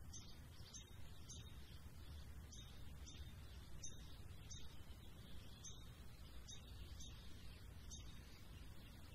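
Faint birds chirping: short high chirps repeating about once or twice a second over a low, steady hum.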